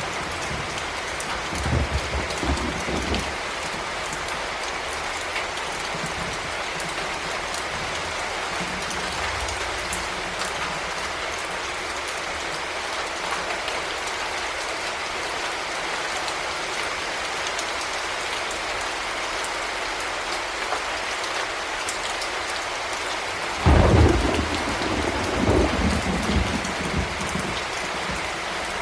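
Heavy rain falling steadily, a dense even hiss. There is a soft low rumble of thunder a couple of seconds in, and a louder clap of thunder near the end that starts suddenly and rolls away over a few seconds.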